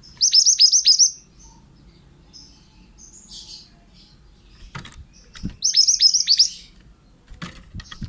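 Mantenan (pied bushchat) singing: two loud bursts of about seven quick, high, downslurred notes each, several seconds apart, with faint chirps between. A few low knocks come near the end.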